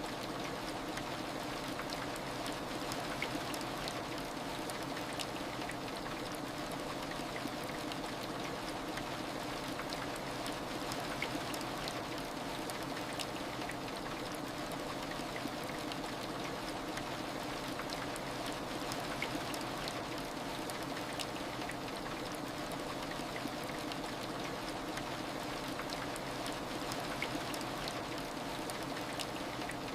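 Steady heavy rain: an even hiss scattered with the small ticks of individual drops.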